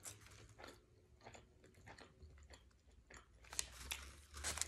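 Close-miked chewing of a mouthful of sub sandwich: soft wet mouth clicks and crunches, with a few louder crunches near the end as the sandwich comes back up to the mouth for another bite.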